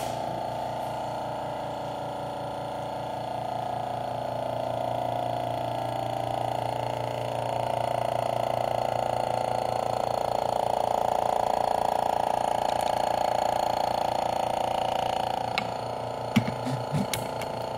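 Portable air compressor running with a steady drone and a fast even pulse, growing somewhat louder midway. A few sharp clicks near the end.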